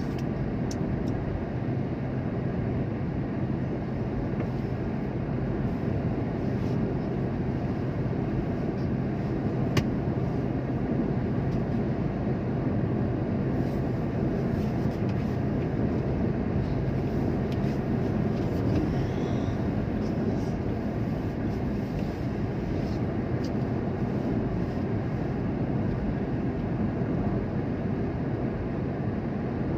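Steady rumble of a vehicle running, with an even low hum and no changes, and one short sharp tick about ten seconds in.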